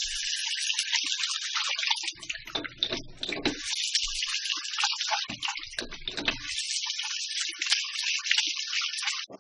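Running water, a steady hiss with a few heavier splashes in the middle, cutting off suddenly near the end.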